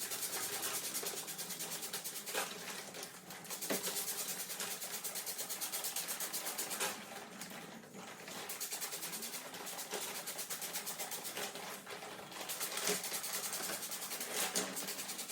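Pressure sprayer hissing steadily as it sprays an air conditioner's head unit, with a rapid even pulsing through the hiss. The spray eases off briefly about halfway through, and a few sharp knocks come in between.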